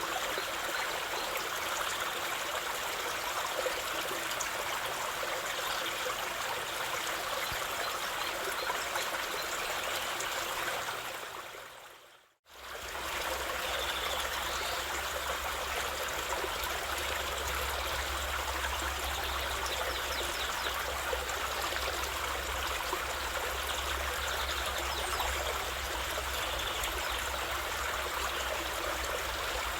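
Steady flowing stream water. About twelve seconds in it fades out to silence for a moment and fades back in, now with a low rumble under it.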